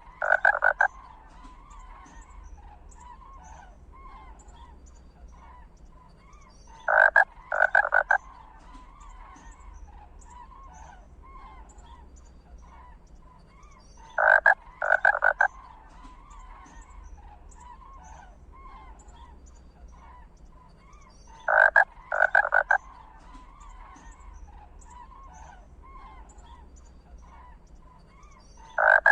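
Animal calls: a loud two-part croaking call that repeats at an even interval of about seven seconds, four times, over a steady faint chorus of short chirps.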